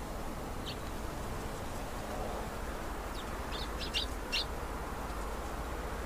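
Small birds giving short, high chirps: one about a second in, then a quick run of several near the middle, over a steady low background hiss.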